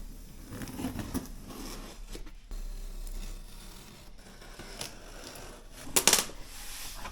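Packaging being handled as a new cordless vacuum's box is unpacked: cardboard and packing material rustling and scraping, with one short, louder noise about six seconds in.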